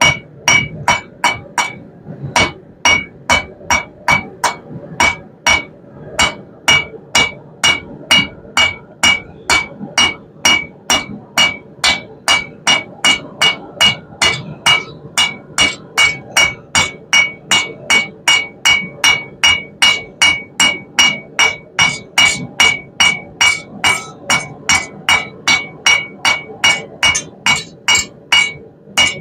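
Blacksmith's hand hammer striking hot half-inch round steel bar on an anvil, a steady rhythm of about two blows a second, each blow ringing. The smith is drawing the bar out into a taper.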